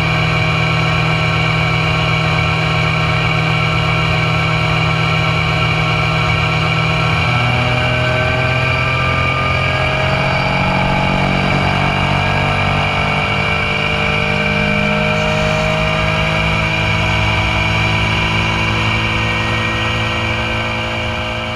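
Motorcycle engine running steadily, its note shifting in pitch about a third of the way in and then settling again.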